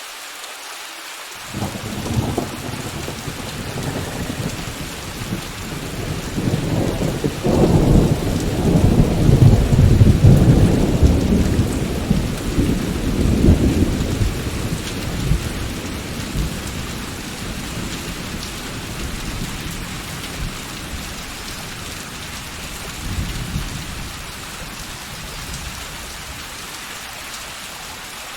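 Steady rain with a long roll of thunder. The thunder begins about a second and a half in, grows to its loudest near the middle and slowly dies away, with a smaller rumble near the end.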